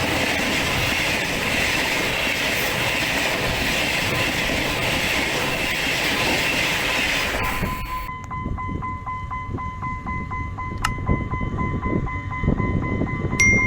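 Henschel diesel locomotive running at speed with a train under full throttle, a loud steady rush of engine and wheels on rail. About eight seconds in the sound drops suddenly to a quieter stretch with a steady whine and a couple of sharp clicks.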